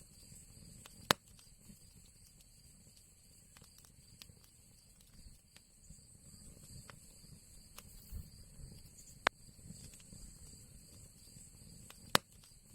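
Fire crackling in an old chimney: a low steady rumble of flames with scattered small crackles and three sharp pops, about a second in, after about nine seconds and near the end.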